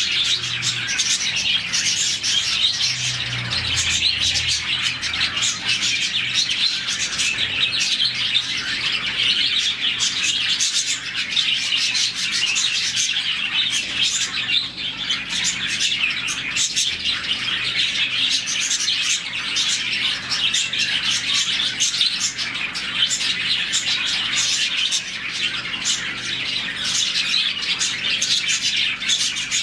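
A colony of around forty budgerigars chirping together in a dense, continuous chatter of many overlapping high calls.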